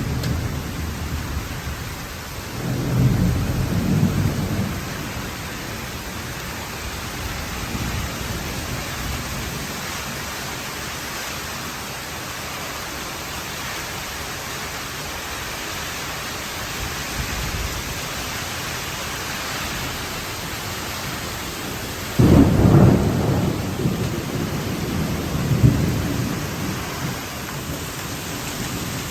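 Tropical thunderstorm: steady heavy rain hissing throughout, with thunder rumbling about three seconds in. About twenty-two seconds in, a sudden louder thunderclap rolls on for several seconds.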